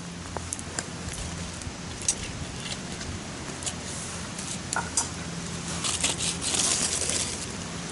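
Campfire crackling, with scattered sharp pops and a louder spell of hissing about six seconds in.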